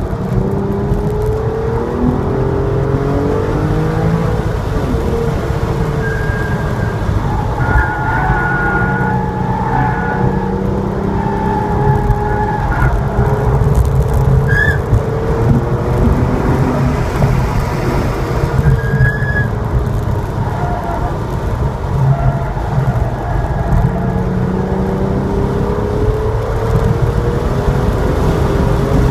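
Porsche 911's flat-six engine heard on board under power, revs rising and easing through the corners and climbing to about 5,000 rpm on throttle near the end, over steady road and wind noise.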